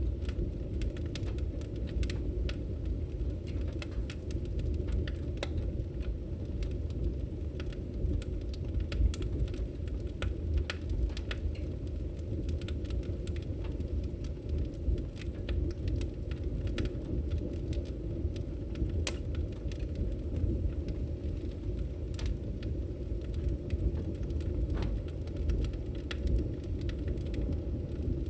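Fireplace fire crackling: a steady low rumble of the flames with frequent small sharp pops and snaps.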